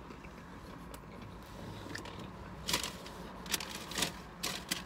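A person chewing a bite of toast, with soft mouth noises, then a few short sharp clicks and rustles from a little past halfway in.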